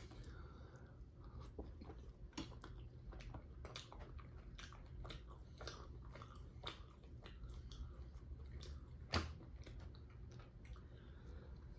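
A person chewing and biting food, with many small wet mouth clicks and one louder click about nine seconds in.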